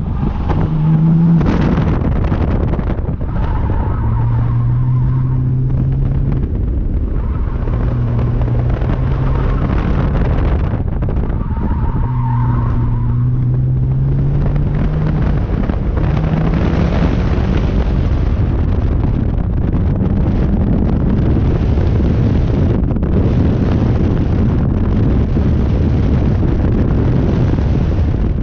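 Porsche 996 Turbo's twin-turbocharged flat-six engine pulling hard and lifting off as it is driven through an autocross course, its pitch rising and falling with the throttle and gear changes, heard from inside the cabin over heavy road and wind noise. The Yokohama A052 tyres squeal briefly a few times in the corners.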